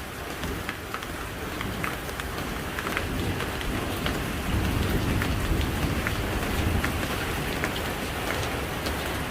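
Heavy storm rain falling steadily, with scattered sharp drips striking a hard surface close by. Under the rain is a low rumble that swells about halfway through.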